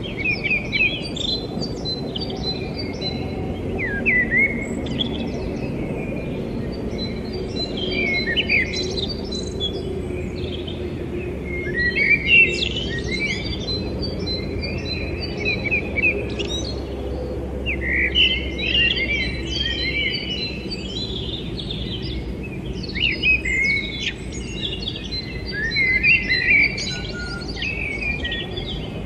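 Small birds chirping and twittering in many short, quick phrases, one after another, over a steady low background noise.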